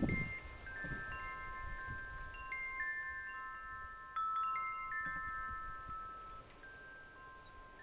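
Wind chimes ringing: several clear high tones struck at irregular moments, each ringing on and overlapping the others, with a small cluster of strikes about four seconds in. A low thump or rustle comes right at the start.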